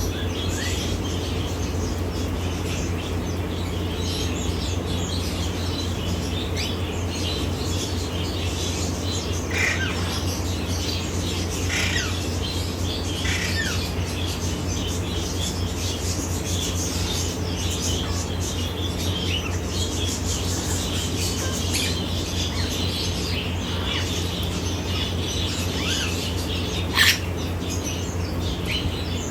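African grey parrot making scattered short chirps and squawks, with a few downward-sliding whistles and one louder squawk near the end, over a steady low hum.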